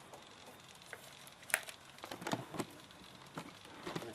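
A few faint, sharp clicks and taps from gear being handled, over a quiet background.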